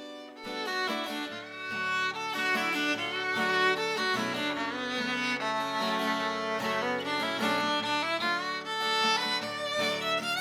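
Fiddle playing an instrumental melody over guitar accompaniment, coming in after a brief dip about half a second in.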